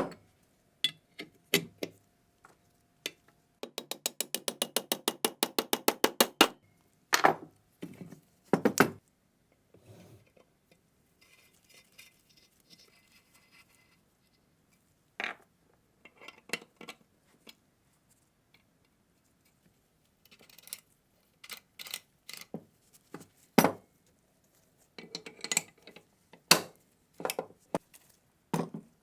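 Metal parts and hand tools knocking and clinking during work on the MG3 machine gun, with a fast, even run of clicks at about nine a second lasting a couple of seconds, starting about four seconds in.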